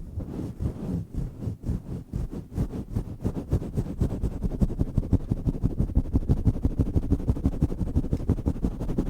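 Hands working a foam cover on a microphone in fast strokes, close on the mic: a quick run of muffled, low thumps, uneven at first and settling into an even rhythm of several a second from about three seconds in.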